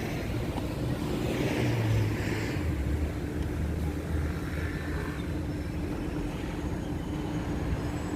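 Strong wind buffeting the microphone: a steady low rumble with a faint steady hum underneath.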